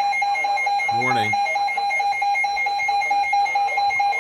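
Weather radio alert alarm sounding a steady, slightly pulsing electronic tone, the alert for an incoming severe thunderstorm warning.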